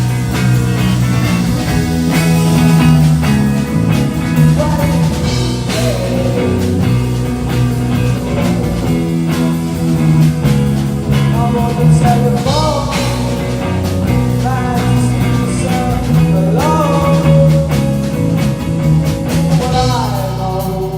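Rock band playing an instrumental passage: a guitar line with pitch bends over bass and drums.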